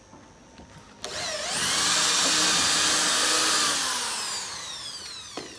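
Handheld power tool's electric motor spinning up about a second in, running steadily at high speed, then slowly winding down in pitch, with a click near the end.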